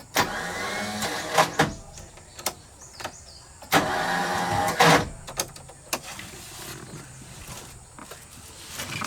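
A small electric motor, as in a handheld power tool, runs in two bursts of about a second and a half each, rising in pitch as it spins up. Sharp metallic clicks and taps come in between the bursts.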